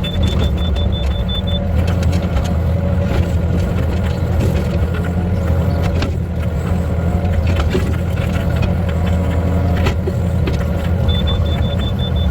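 Powered breaker running steadily while splitting oak logs: a continuous low machine hum with scattered sharper knocks.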